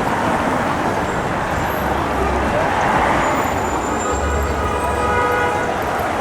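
City street traffic with a heavy vehicle's engine running. From about four seconds in, a steady multi-tone horn blast sounds for about two seconds.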